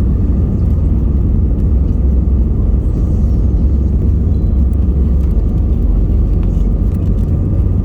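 Airbus A320-200 airliner noise: a steady, loud low rumble with a faint higher hum above it, unchanging throughout.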